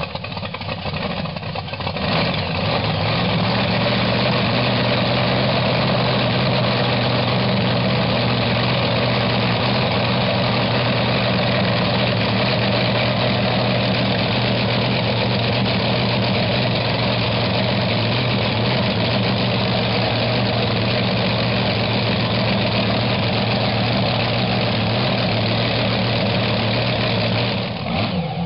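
Freshly built supercharged Hemi V8 running on its first firing, coming up to a steady, even idle about two seconds in and holding it.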